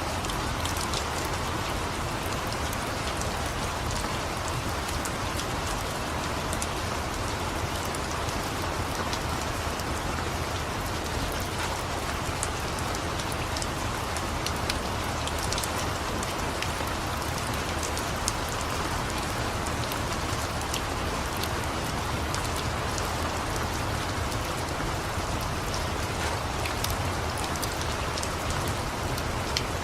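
Steady rain falling, with scattered sharp crackles and pops from a wood fire over it.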